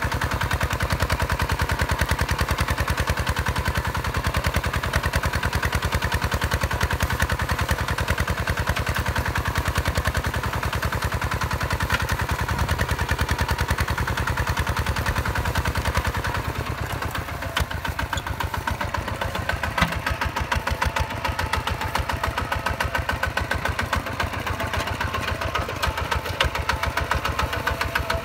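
Single-cylinder diesel engine of a Hinota HG Gold 155 DI tractor running with a steady, rapid chugging. About two-thirds of the way through it slows down to a slower idle.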